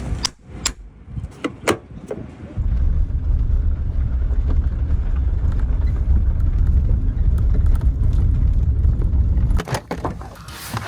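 Car driving, a steady low rumble of engine and tyres lasting about seven seconds, with a few sharp clicks before it and some knocks as it drops away near the end.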